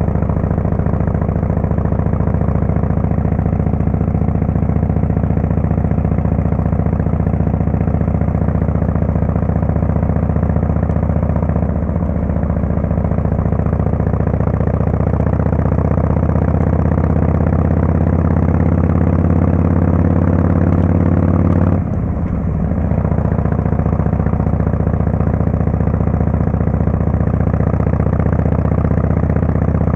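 Harley-Davidson Fat Boy S's Screamin' Eagle Twin Cam 110 V-twin running under way through a Kesstech exhaust. The engine note climbs slowly, drops briefly about two-thirds of the way through, then holds steady.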